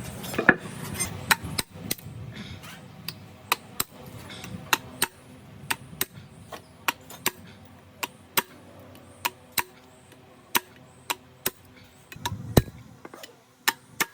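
Light hammer taps on metal, about two a second and uneven in strength, each with a faint ring.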